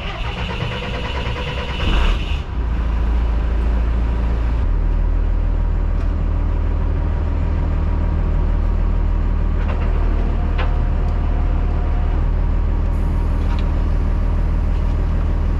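Rollback tow truck's engine running with a deep, steady hum. A rattly, higher-pitched stretch in the first two seconds ends in a loud surge, and the engine settles into an even idle about four and a half seconds in.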